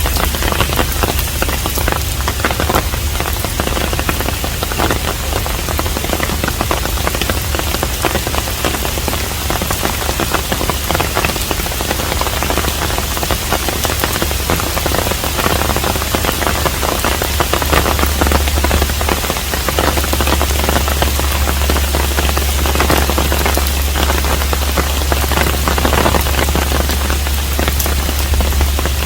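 Steady rain with a dense patter of individual drops, over a constant low rumble.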